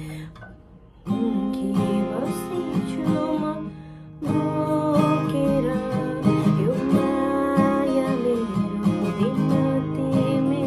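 An acoustic guitar, newly bought, being strummed and picked. The playing comes in about a second in and grows fuller and louder from about four seconds in.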